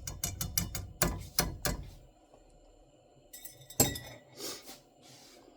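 Kitchenware clinking and knocking: a quick run of light knocks in the first two seconds, then a louder, ringing clink near the four-second mark, followed by a couple of brief scrapes.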